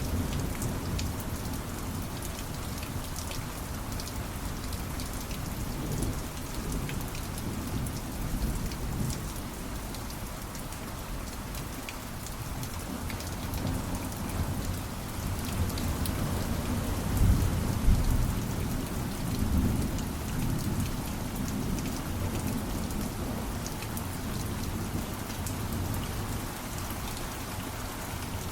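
Steady rainfall with a low roll of thunder building and peaking about two-thirds of the way through.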